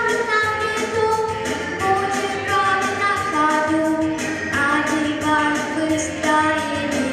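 A female voice singing a song in long, held notes over a backing track with a steady beat.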